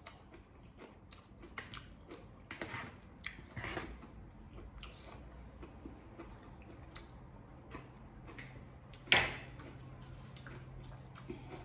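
Chewing and wet mouth smacks of a person eating spicy cucumber salad, with many small scattered clicks and one sharper, louder click about nine seconds in. A faint steady low hum comes in about halfway through.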